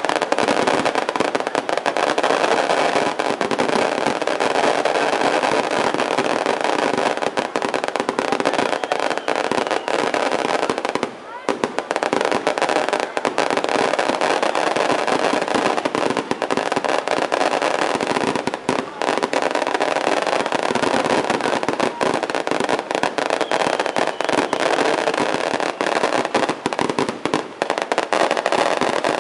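Fireworks crackling densely and without a break, many small bangs running together, with a brief lull about eleven seconds in; voices are mixed in underneath.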